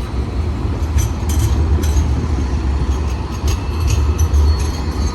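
Light rail tram running past with a heavy low rumble and scattered sharp clicks from the wheels and track, and a faint thin squeal near the end.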